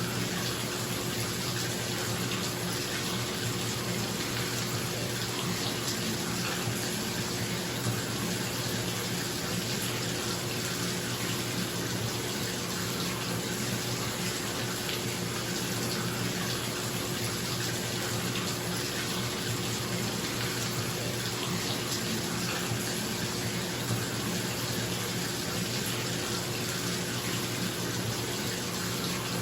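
Bathtub filling from a running tap, a steady rush of water into the tub, with a bathroom exhaust fan humming underneath.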